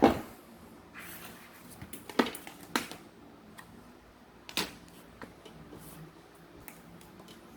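A few sharp clicks and knocks of small tools and parts being handled, the loudest right at the start, others about two, three and four and a half seconds in, with light ticks between.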